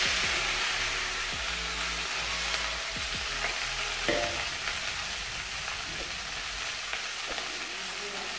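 Freshly added onion, tomato, chillies, herbs and potato sizzling in hot oil in an aluminium kadai: a steady frying hiss that slowly dies down, with a few light knocks.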